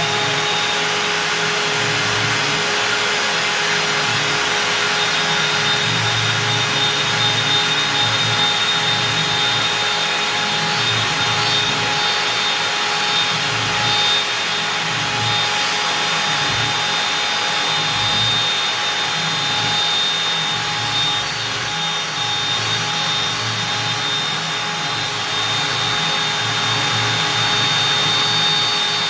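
Stepcraft M1000 CNC router's spindle running at 25,000 rpm, its 4 mm two-flute up-down compression bit cutting out beech. A steady high whine over dense cutting noise, with a lower rumble that swells and fades as the cut moves along the workpiece.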